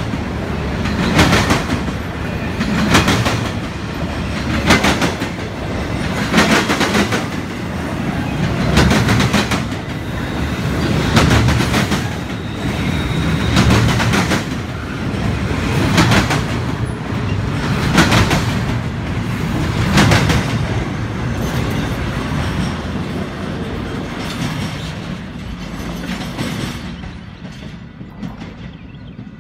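Cars of a Union Pacific double-stack container train rolling past, the wheels clacking over the rail joints in a regular beat about every two seconds. The sound dies away near the end as the last cars go by.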